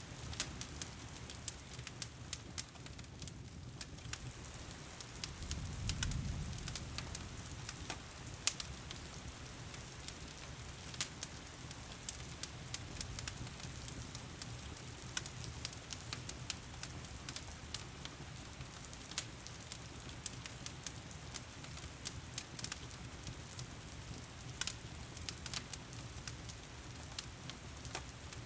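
Wood fire crackling with frequent sharp, irregular pops over the steady hiss of heavy rain. A brief low rumble swells about six seconds in.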